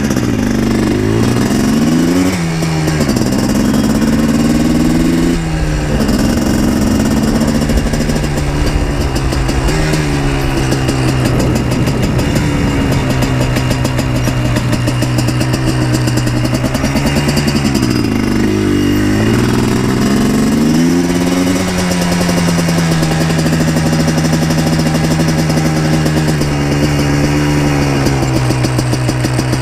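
Yamaha Blaster 200's two-stroke single-cylinder engine running under way, revving up and falling back several times as it changes speed, then holding a steady pitch for the last third.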